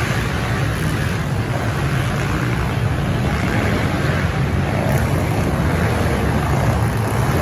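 Several pit bikes racing around the track, heard together as a steady, loud, mixed engine drone.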